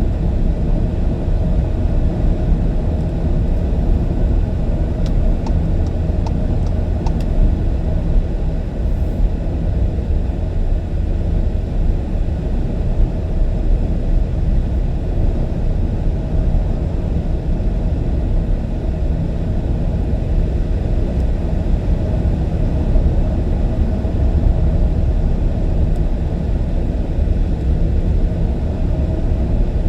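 Steady rumble of road and tyre noise from a car driving.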